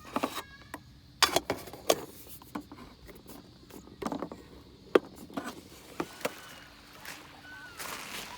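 A string of irregular sharp clicks and knocks, as of small objects being handled and set down, with a brief high call near the end.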